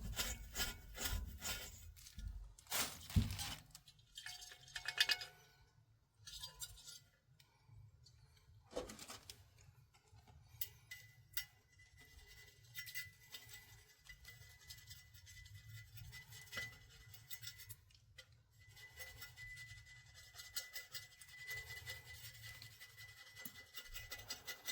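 Small metal heater parts clinking and scraping as they are handled and cleaned of soot, busiest in the first few seconds, then scattered clicks and light scraping.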